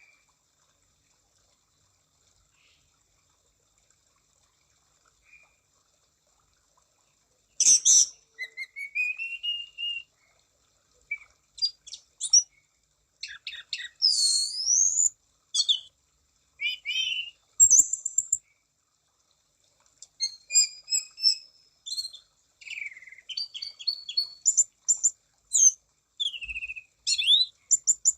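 Orange-banded thrush (anis cendana) in full, energetic song: a rapid, varied run of whistles, rising and falling notes, chirps and short trills. The song starts about seven seconds in after near silence and runs on in quick phrases.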